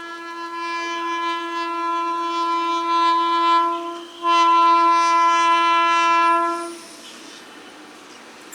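Indian Railways train horn sounding two long, steady blasts on one pitch, the first swelling as it goes, a brief break, then a louder second blast that cuts off sharply. After it, a quieter rushing noise of the train.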